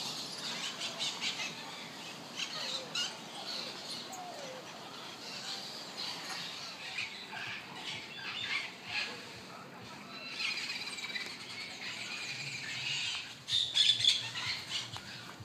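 Many short, high-pitched animal chirps and squeals, with a louder cluster of squealing calls near the end.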